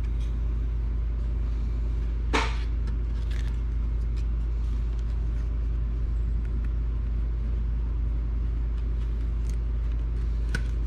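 A steady low hum throughout, with light clicks from small plastic parts of a Nintendo Switch's back kickstand being handled and fitted. One sharper click comes about two seconds in, and fainter ticks come near the end.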